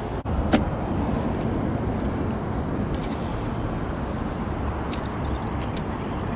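Steady hum of road traffic, with a single sharp knock about half a second in.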